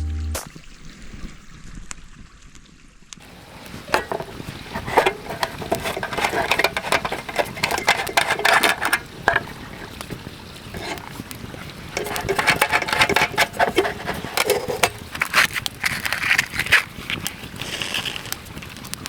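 A pot of pork belly in cola bubbling at a simmer over a campfire, with irregular pops and crackles. It grows louder about three seconds in.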